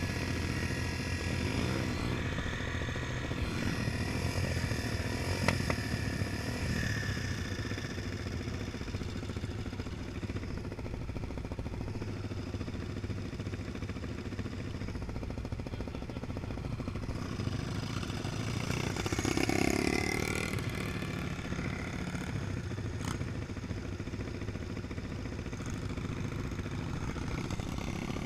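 Honda Tornado 250's single-cylinder four-stroke engine running steadily while the bike is ridden. About twenty seconds in it swells louder as the revs rise.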